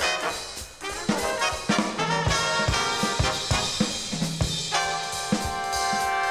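Big-band jazz from a vinyl record: a brass section of trumpets and trombones plays over a drum kit, ending in a long held chord of several notes from about three-quarters of a second before the end.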